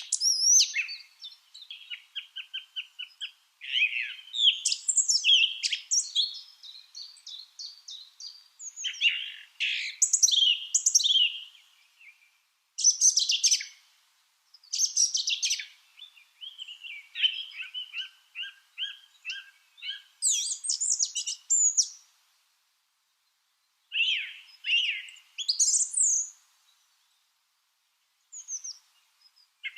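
Lovebirds chirping and squeaking in rapid strings of short, high notes, in bouts of a few seconds with brief pauses between them.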